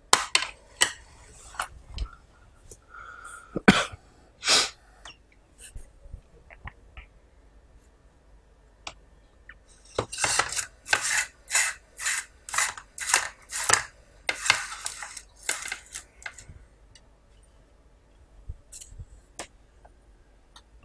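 Close-miked eating sounds of curry and rice: wet chewing and mouth noises, scattered at first, then a run of about a dozen steady chews, roughly two a second, in the middle.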